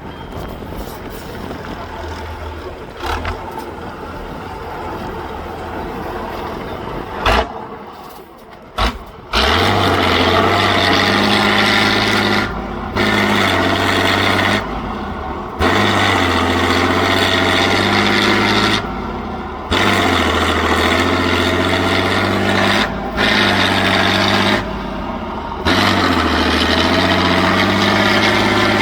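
Heavy off-road trial truck's engine running. About a third of the way in it revs hard under load, held at high revs with the throttle lifted briefly several times, and a couple of sharp knocks come just before it goes loud.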